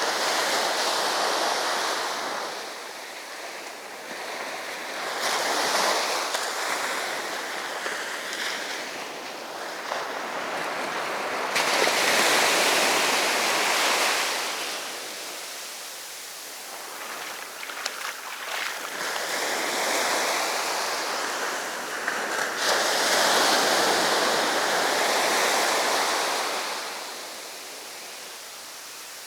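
Sea surf: waves breaking and washing up the beach, the rush of water swelling and fading every few seconds.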